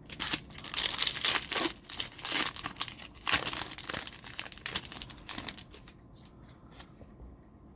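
Crinkly foil trading-card pack wrapper being torn open and crumpled: dense crackling for about five seconds, then a few lighter rustles.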